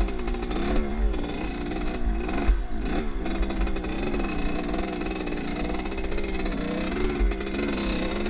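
Off-road motorcycle engine revving up and down repeatedly as the bike is ridden, its pitch rising and falling every second or so, with wind buffeting the microphone.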